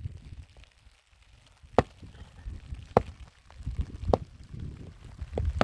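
Chopping: four sharp strikes, spaced a little over a second apart.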